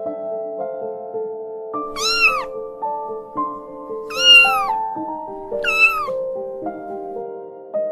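A kitten meowing three times, high-pitched calls that rise and fall, over soft background piano music.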